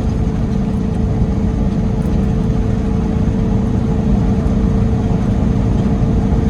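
Peterbilt 389 semi truck heard from inside the cab while driving: a steady engine drone and road rumble with a constant hum.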